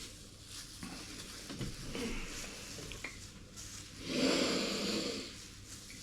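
A man breathing hard against the burn of a very hot chilli, with one loud, noisy exhale about four seconds in that lasts about a second.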